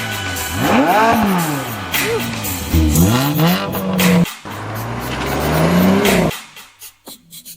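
Car engine revving, its pitch climbing and falling several times, with music behind it, then cutting off abruptly a little after six seconds in.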